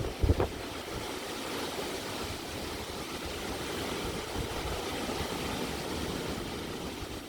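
Strong typhoon wind blowing steadily, with a few low thumps of wind buffeting the microphone just after the start.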